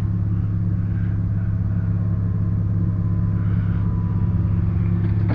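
Car engine running steadily, a constant low drone with no change in speed.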